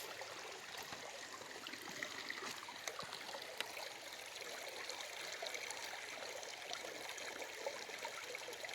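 Stream water running and trickling steadily, with small splashes and ticks.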